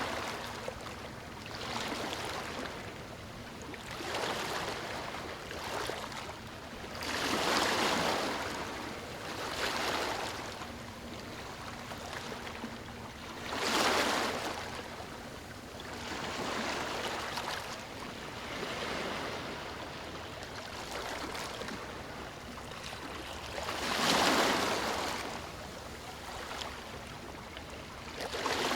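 Ocean waves breaking and washing up a beach, a steady surf hiss that swells with each wave every few seconds, the biggest waves at about 8, 14 and 24 seconds in.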